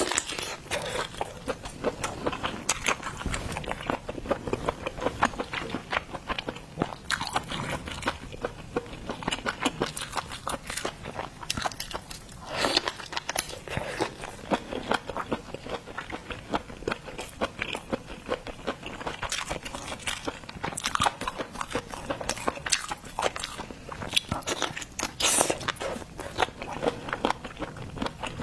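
Close-miked ASMR eating of shellfish: steady biting and chewing with crunches and wet mouth clicks coming thick and irregular.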